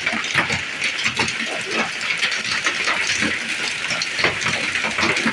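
Hailstones pelting down with rain: a dense, irregular clatter of hits over a steady hiss.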